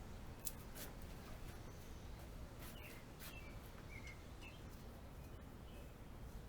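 Faint scattered clicks and light ticks of hand work on a bicycle, over a steady low background rumble, with a few short bird chirps.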